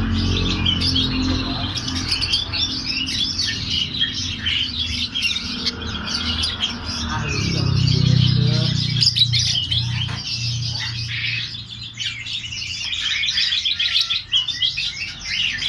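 Small birds chirping continuously, many quick high notes overlapping. A low hum swells underneath around the middle.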